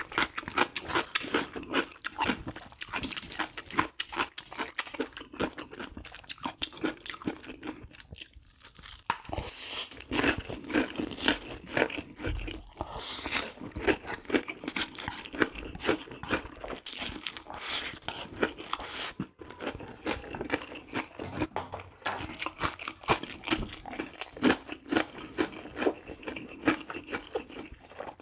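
Close-miked chewing and biting of crunchy food: a dense run of quick crunches throughout.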